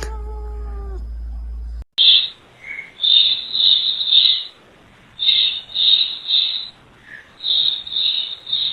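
A held musical chime fades out within the first second. After a cut, a small animal's short, high-pitched calls follow, repeated in quick runs of about three.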